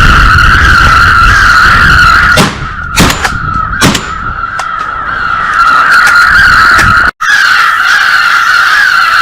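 Strong wind buffeting the microphone, with a steady wavering whine throughout. Sharp shotgun blasts sound about two and a half, three and four seconds in, and the level drops after each.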